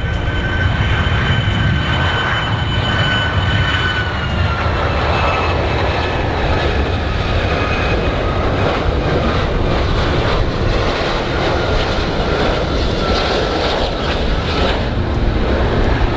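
Airplane engines running loud and steady, with a high whine that drops slightly in pitch about four seconds in.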